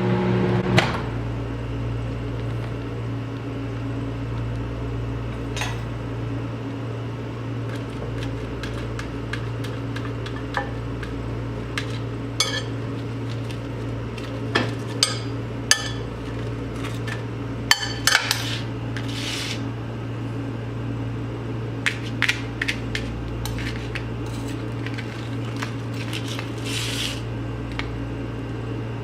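Microwave oven running with a steady low hum, over which come scattered sharp clicks and ticks, bunched in a few clusters.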